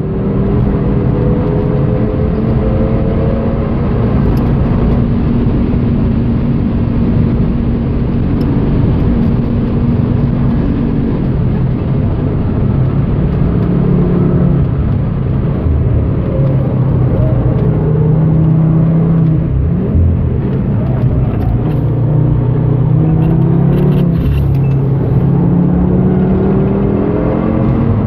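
Car engines at full throttle on a racetrack, heard from inside the cabin of a 2013 Audi TT RS, the revs climbing and dropping through the gears. The loud exhaust of a BMW M3 running ahead all but drowns out the TT RS's own turbocharged inline-five.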